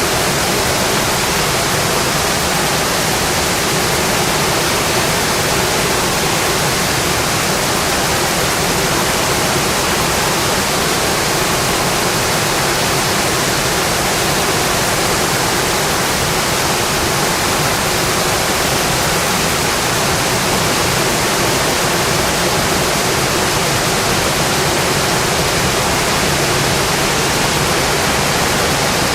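Heavy rain falling steadily on a metal roof, a dense, even wash of sound that does not let up.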